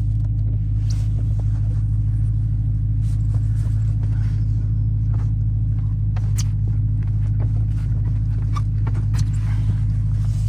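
Supercharged 6.2-litre HEMI V8 of a Dodge Challenger Hellcat idling steadily, heard from inside the cabin, with a few faint ticks over it.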